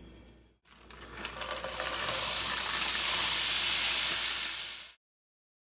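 Riced cauliflower poured into a pan of hot melted butter and sizzling: the hiss builds over about a second, holds loud and steady, then cuts off suddenly.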